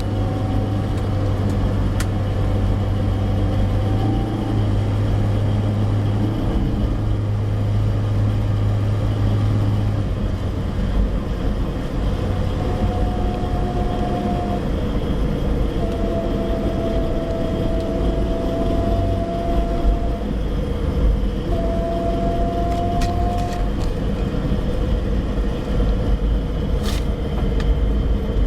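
Suzuki APV on the move with steady road and engine rumble, and a steady humming note that fades in and out several times. This is the hum the owner hears above about 50 kph and believes comes from the automatic transmission.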